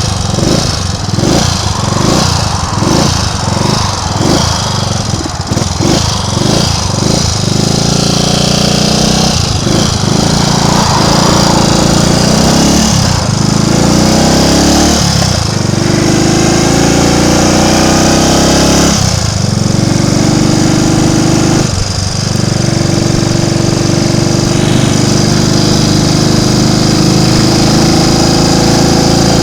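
Triumph Tiger Cub's small single-cylinder four-stroke engine under way on the road. It pulses unevenly for the first several seconds, then pulls up through the gears, rising in pitch each time with a dip at each of several gear changes.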